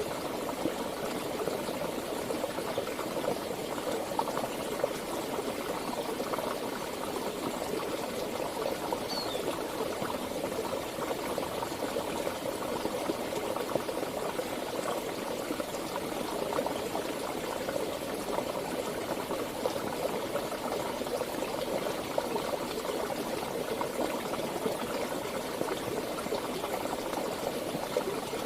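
Running water of a stream, bubbling and gurgling steadily with no change in level. A single faint high chirp sounds briefly about nine seconds in.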